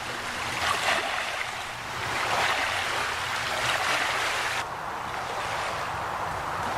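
River water washing and lapping at the shore, a hiss that swells and ebbs every second or so. About two-thirds of the way in it abruptly turns duller.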